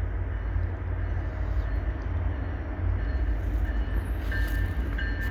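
Freight train approaching: a steady low rumble, with a thin high whine coming in near the end.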